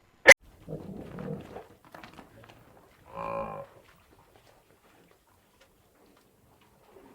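A sharp click near the start, rough noise about a second in, then a cow's short moo about three seconds in.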